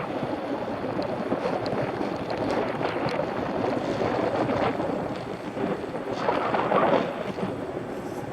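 Wind rushing over a Shimano CM-1000 action camera's microphone while riding a mountain bike, mixed with the rolling noise of the bike. It is a steady, rough hiss that swells louder about six to seven seconds in.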